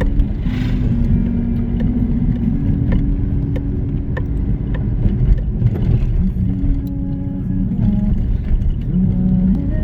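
A car driving along a road, with steady low engine and road rumble.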